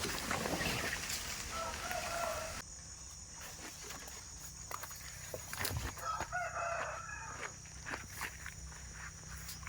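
A rooster crowing twice, each crow about a second long, with a steady high tone in the background.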